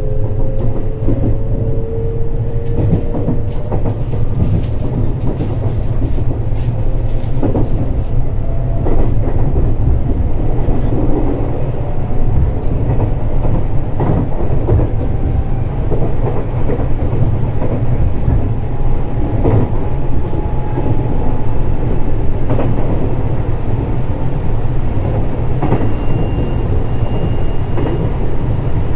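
Running sound inside a JR West 521 series electric multiple unit: a steady rumble of wheels on rail with scattered rail-joint clicks. Over the rumble, thin whines rise slowly in pitch.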